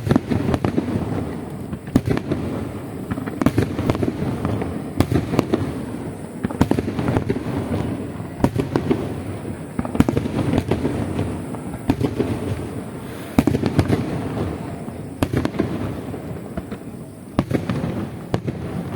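Aerial fireworks going off in a continuous barrage: a rapid, dense run of shell bursts and crackling reports over a steady rumble, with louder booms every second or two.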